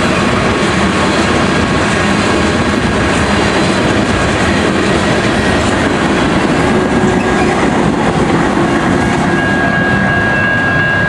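Freight train of tank cars rolling past close by, its wheels clacking over the rail joints. A thin steady squeal comes in near the end.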